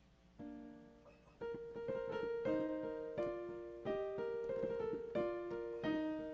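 Piano music: a soft chord about half a second in, then a slow melody of sustained notes entering about a second later.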